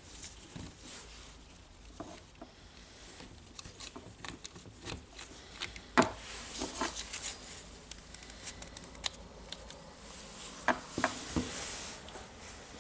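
Small parts of a rotary hammer being handled during reassembly: scattered light clicks and rubbing, with a sharper click about six seconds in and a few more clicks near the end.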